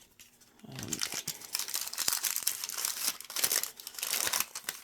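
Plastic wrapping crinkling and rustling as small pieces are unwrapped by hand, with many small clicks. It starts about half a second in and dies down near the end.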